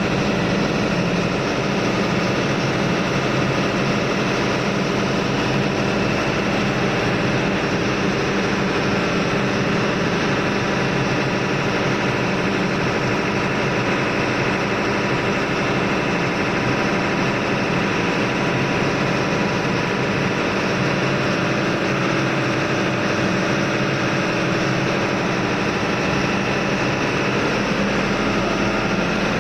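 Steady, loud drone of engine-room machinery on a ship, running without change.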